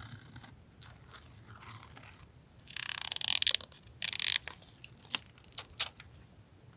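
Paper and sticker sheets being handled: soft rustling, then two louder crinkling, scraping passes about three and four seconds in, followed by a few sharp crackles.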